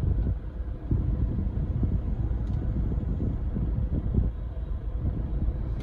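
Chevrolet Cruze 2.0 turbocharged engine idling with a low, uneven rumble.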